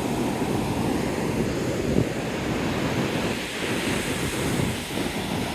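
Surf washing onto the beach, with wind buffeting the microphone. A single short thump about two seconds in.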